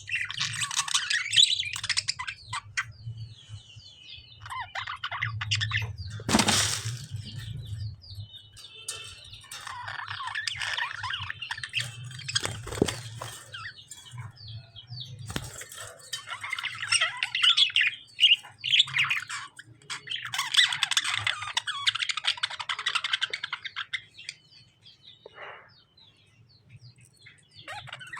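Pet budgies and lovebirds chirping in busy bursts of a few seconds each, with a sharp knock about six and a half seconds in and a faint low hum underneath.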